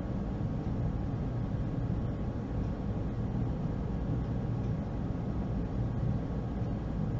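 Steady low hum with a faint hiss over it, unchanging, with no distinct events.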